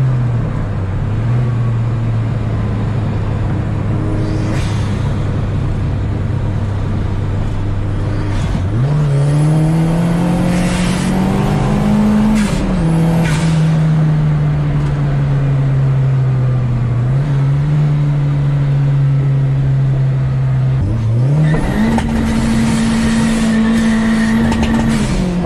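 Turbocharged car engine pulling through the gears: its note climbs under throttle, then drops at each shift. Short hissy bursts come at the lift-offs, the turbo flutter of compressor surge.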